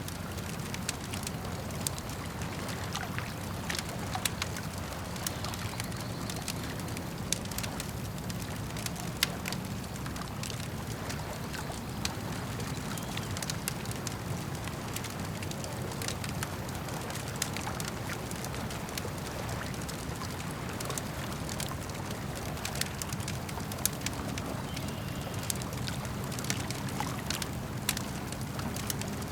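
Campfire crackling and popping with irregular sharp snaps, a few louder than the rest, over a steady low wash of lake water lapping.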